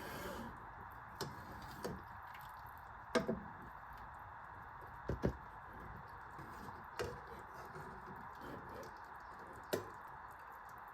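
Light kitchen handling sounds while cooking: about eight soft knocks and clicks, scattered and irregular, over a steady background hum.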